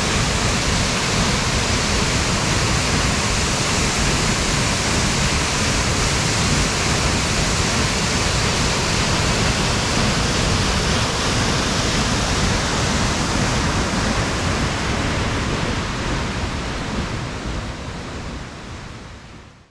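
Waterfall rushing steadily as an even wash of falling water, fading out over the last few seconds.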